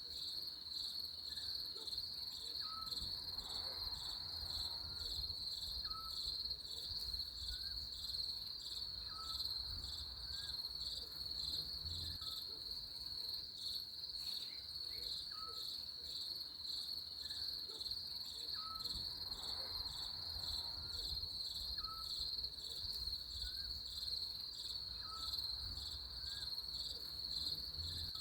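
Crickets chirping steadily in a continuous, rapidly pulsing high trill. A faint short rising note repeats about every second and a half beneath it.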